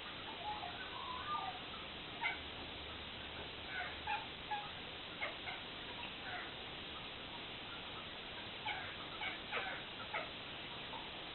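Domestic cat making short, chirping 'bird meow' calls at magpies, in scattered clusters over a steady background hiss.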